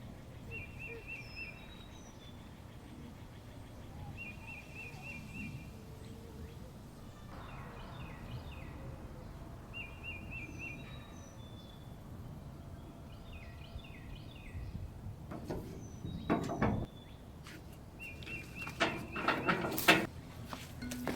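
Songbirds singing outdoors: one bird repeats a short trilled phrase every few seconds among other scattered chirps, over a steady low background. Near the end there are a few louder knocks.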